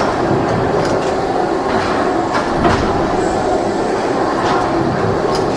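Steady loud mechanical running noise with a faint hum and irregular short clicks and knocks.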